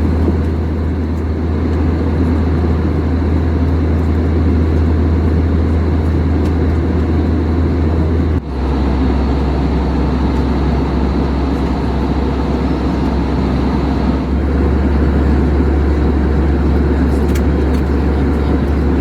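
Steady cabin noise of an Airbus A321 in cruise: a loud, even rumble of engines and airflow, with a sudden brief break about eight seconds in.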